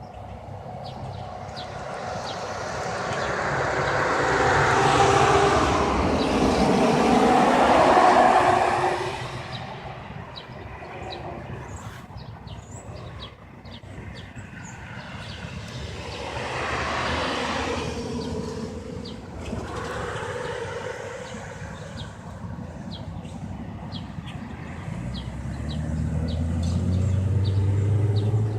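Passing traffic: a loud swell of vehicle noise rises and fades in the first third, a second, weaker pass follows with a falling pitch, and a low engine rumble builds near the end. Short bird chirps are scattered throughout.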